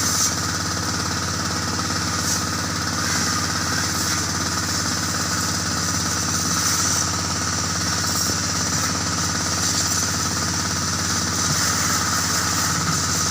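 Kubota L3608 tractor's diesel engine running steadily at a constant speed, with a rattly clatter.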